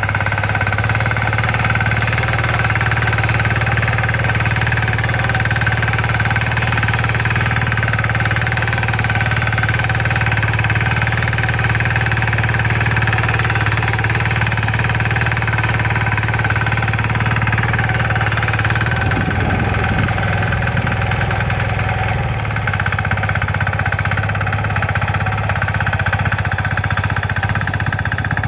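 Kisankraft KK-IC250D power weeder's 5 HP single-cylinder diesel engine running steadily, its note shifting slightly about two-thirds of the way through.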